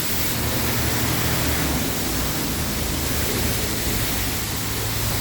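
Steady hiss of a high-pressure car wash spray wand blasting water, with a low steady hum underneath.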